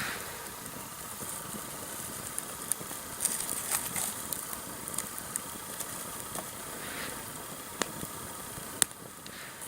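Sawtooth oak firewood burning in a campfire: a steady rush of flame with sharp crackles and pops, a cluster of them about three to four seconds in and single loud pops near eight and nine seconds.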